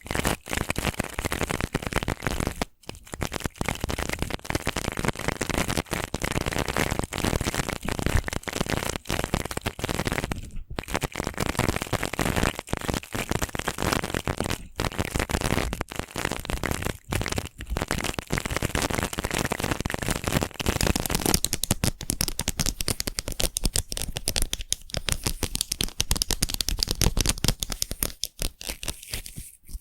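Brush bristles scratching in quick, dense crackly strokes close to the microphone, a prickly ASMR brushing sound. About 21 seconds in, the strokes turn lighter and hissier, with less low-end weight.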